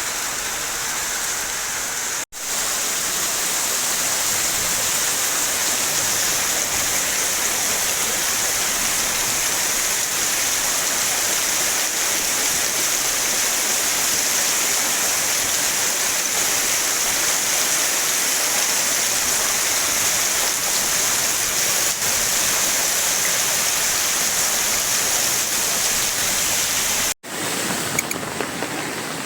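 Floodwater rushing steadily over a road in heavy rain, broken by two brief dropouts, one about two seconds in and one near the end.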